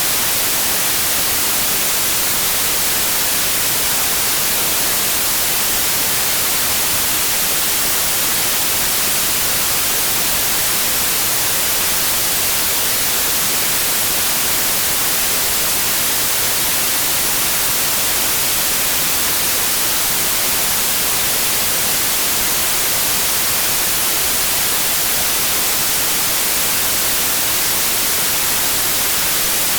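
Steady white noise: an even, unchanging hiss with no tones in it, strongest in the treble.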